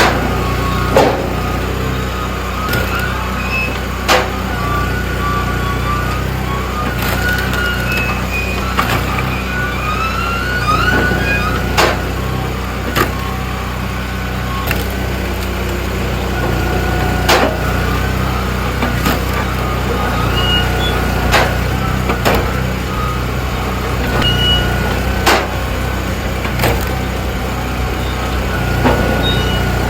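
Splitforce 1320 Ti hydraulic log splitter running with a steady low machine hum. Logs split with a sharp crack every second or two, amid high squeaking creaks.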